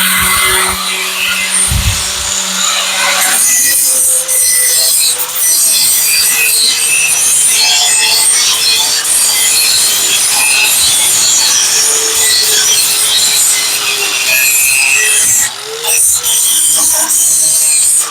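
Angle grinder grinding down fresh weld beads on a steel shock mount. It runs steadily with the motor note wavering under load, letting off briefly twice near the end.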